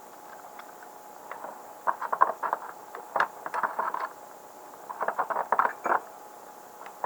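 Three bursts of quick, sharp metal clicks from hand tools being worked on a small-engine carburetor, with quieter gaps between them.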